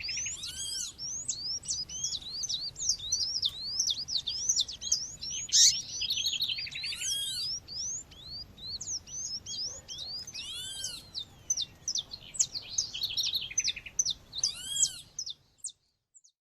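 Playback recording of a female seedeater (coleiro / papa-capim) calling among other bird chirps: a dense stream of quick high chirps, with a louder arched call four times and a sharp click about halfway. The recording cuts off about a second before the end.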